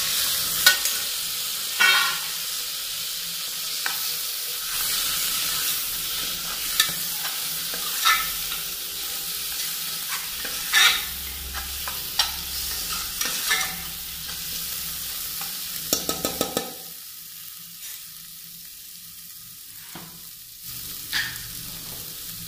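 Tomato masala frying and sizzling in a pressure cooker, stirred with a steel spoon that clinks against the pot now and then. There is a quick run of taps about two-thirds through, after which the sizzle is quieter.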